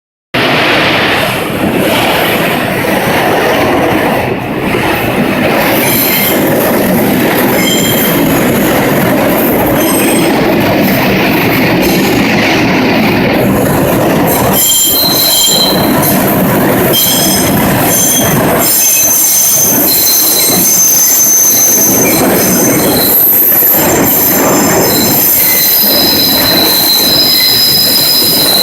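R142 subway train running around a tight loop curve, its steel wheels squealing against the rails over a steady rumble. Shrill squeal tones start about six seconds in and keep appearing and fading, several at once in the later part.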